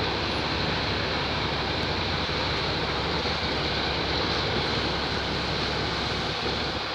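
Steady engine drone mixed with wind rushing on the microphone, with no break or change.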